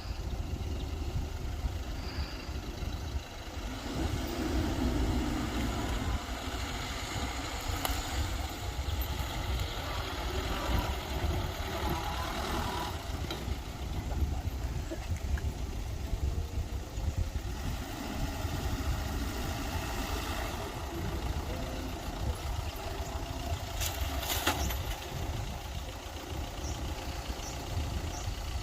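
Mitsubishi BD2G bulldozer's diesel engine running steadily with a low rumble while it works, with a couple of sharp knocks.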